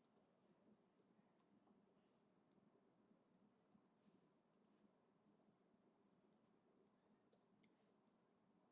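Near silence with about a dozen faint, irregularly spaced computer clicks from a mouse and keyboard being worked at a desk.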